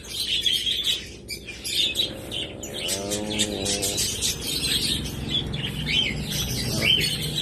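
A flock of small parrots, parakeets and lovebirds, chirping and chattering nonstop in quick overlapping high calls.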